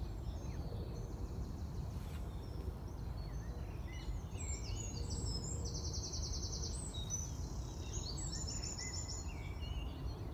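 Several small birds singing, with rapid trilled songs loudest about four seconds in and again about eight seconds in, over a steady low rumble.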